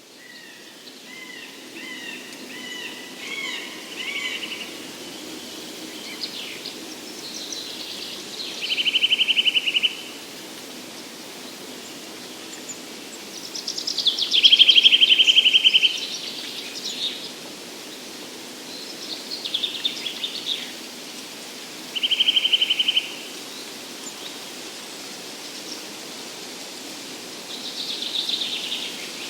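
Several songbirds singing in a forest. One repeats a loud song of higher notes ending in a rapid, buzzy trill, three times about six seconds apart, over a steady low background hush.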